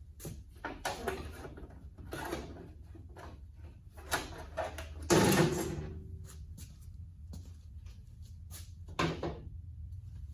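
Metal tools and parts clattering and knocking during hands-on tractor repair work. The loudest is a hard metallic clank about five seconds in that rings briefly, over a steady low hum.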